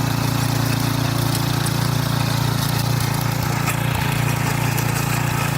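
Single-cylinder 170 petrol engine of a walk-behind tiller running steadily while it works the soil.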